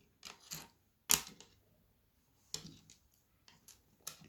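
Plastic Lego bricks clicking and snapping together as they are handled and pressed into place: a string of irregular sharp clicks, the loudest about a second in.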